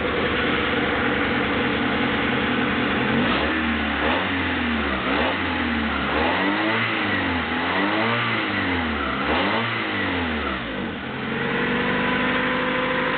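Honda F22 2.2-litre four-cylinder SOHC VTEC engine idling, then blipped up and down several times in quick succession from about three seconds in, settling back to a steady idle near the end. It runs smoothly.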